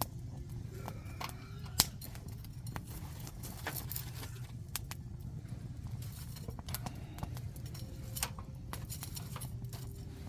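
Wood campfire crackling with irregular sharp pops, the loudest about two seconds in, over a steady low rumble.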